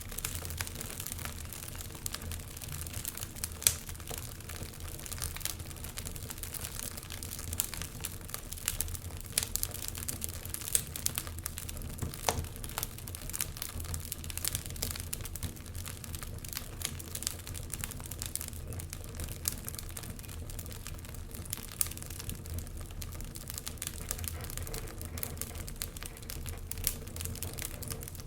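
Fireplace fire crackling with dense, irregular snaps and pops, a sharper pop about four seconds in, over a low steady rumble.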